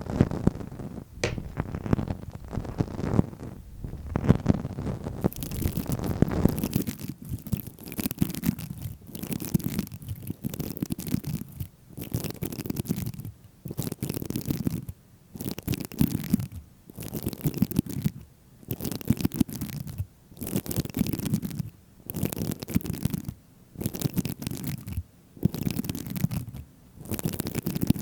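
Close-miked ASMR scratching strokes. They are irregular at first, then from about five seconds in they settle into a steady rhythm of long strokes roughly every second and a half, with short quiet gaps between them.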